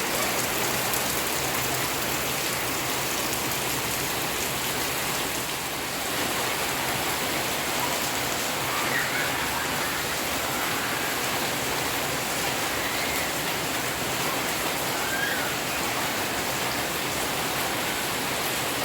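Heavy rain falling steadily, an even hiss of water on the ground and surfaces.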